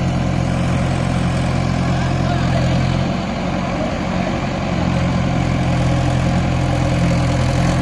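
Tractor diesel engine running steadily, its note dipping briefly about three seconds in before settling back.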